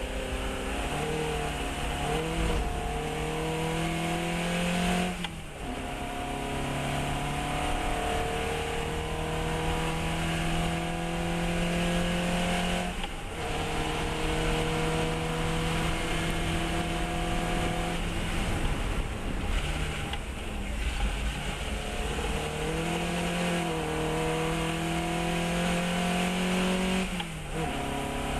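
Fiat 132 race car's four-cylinder engine under hard acceleration on track. It climbs steadily in pitch and drops sharply at gear changes about 5, 13 and 20 s in, then falls away near the end.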